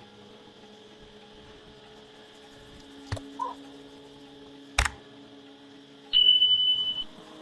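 Two sharp clicks, then one steady high-pitched beep lasting about a second near the end, over a low steady hum.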